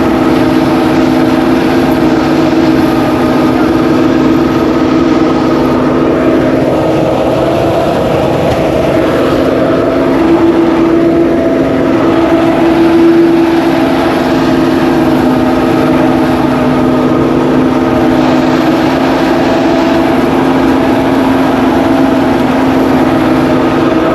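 Engine-driven rice threshing machine running steadily at working speed, with a constant hum that swells slightly around the middle.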